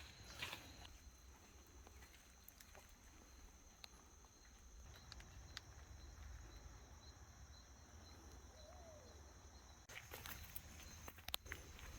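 Faint rainforest insects calling in a steady high whine, with occasional footsteps on the trail that become more frequent near the end.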